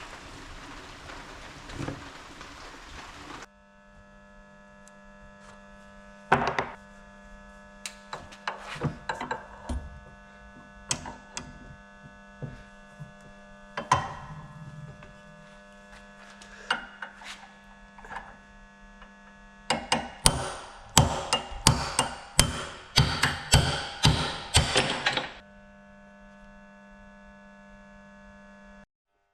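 Scattered sharp knocks and taps over a steady electrical hum, with a quick run of knocks, about two a second, from about twenty to twenty-five seconds in.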